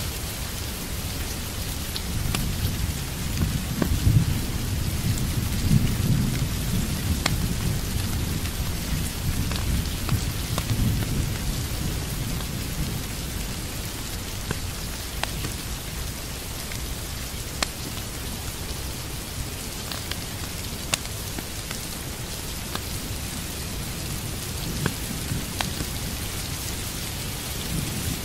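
Steady rain with a low rumble of thunder that swells about four seconds in and dies away by about twelve seconds. Scattered sharp ticks sound through it.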